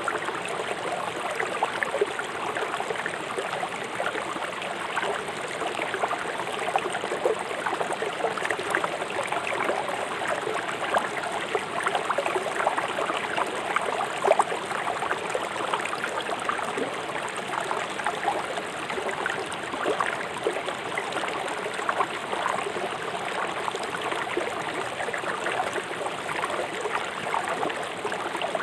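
River water rushing swiftly over stones: a steady rush full of small splashes and gurgles.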